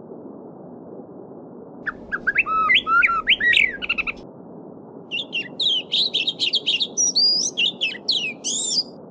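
Songbirds singing over a steady babbling stream: a phrase of quick whistled, gliding notes about two seconds in, then after a short pause a longer, higher-pitched phrase of rapid chirps and trills.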